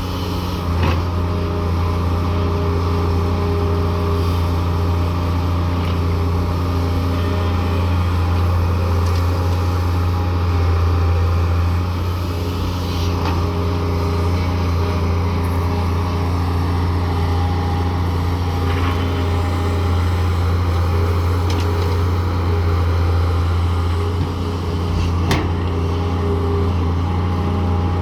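Daewoo 170W3 wheeled excavator's diesel engine running steadily under load, with a strong low drone. A few faint knocks come through at scattered moments.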